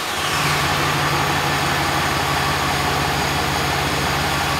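A 5.7-litre HEMI V8 in a Ram 2500 pickup idling steadily, just after being started.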